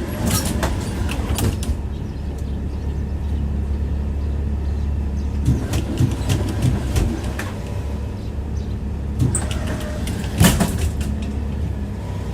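A tram running on its rails, heard from inside the car: a steady low rumble with clusters of sharp wheel clatter over rail joints, about a second in, again between about five and seven seconds, and near ten seconds.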